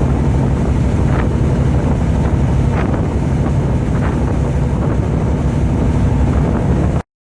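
Fishing boat's engine running steadily under way, with wind buffeting the microphone; it cuts off abruptly near the end.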